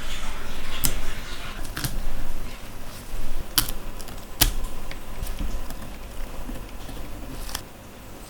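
Small sharp mechanical clicks, about half a dozen at irregular intervals, with light handling and scraping of small metal camera parts during work on an Olympus Ace film camera.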